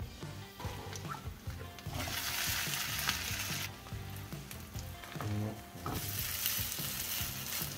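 Grated-potato rösti frying in butter in a pan over a lowered flame, a steady sizzle that swells louder about two seconds in and again about six seconds in. Faint background music underneath.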